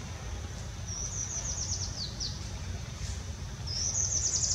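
A small bird singing twice, each phrase a quick run of about eight high chirping notes, the second louder. Underneath are a steady thin high tone and a low rumble.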